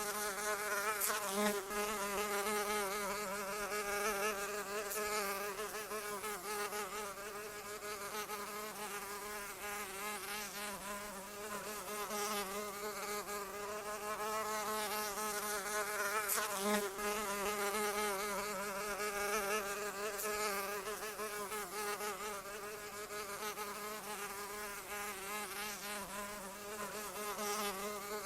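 A fly buzzing steadily in flight, its wingbeat hum wavering slightly up and down in pitch.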